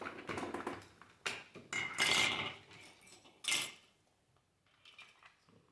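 Hard plastic toy pieces clicking and clattering as they are handled and pushed together, with the loudest scraping clatter about two seconds in and another sharp click a moment later.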